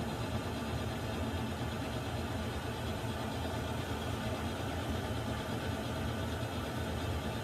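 Water heater running with a steady, even rushing drone that is strongest in the low range, with a faint hum under it.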